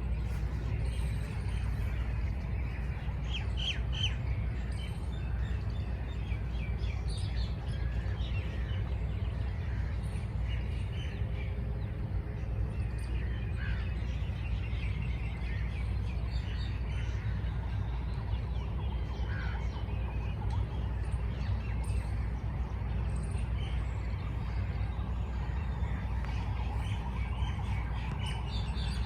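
Wild birds chirping and calling: scattered short chirps and squawks over a steady low rumble.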